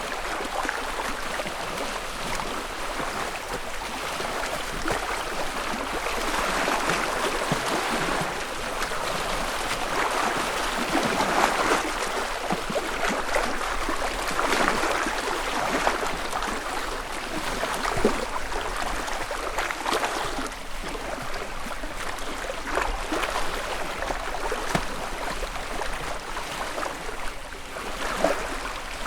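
Small lake waves lapping and splashing against the shore in a continuous gentle wash that swells and fades every few seconds, with small splashes scattered through it.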